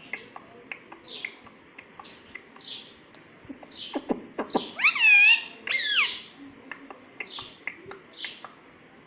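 Pet ring-necked parakeet making soft clicks and short chirps, with two loud calls about five and six seconds in.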